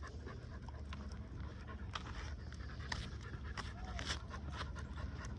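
American pit bull terrier puppy panting softly, with scattered light clicks.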